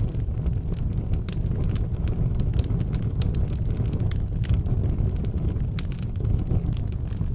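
Wood fire burning in an outdoor fireplace: frequent sharp crackles and pops over a steady low rumble.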